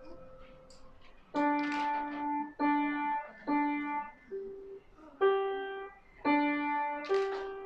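Piano played one note at a time in a slow, simple melody by a young child, the notes starting about a second and a half in, each held for half a second to a second.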